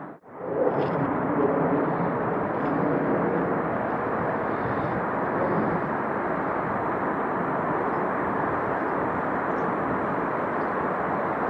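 Steady outdoor rushing noise with a few faint high chirps, after a brief drop in sound just after the start.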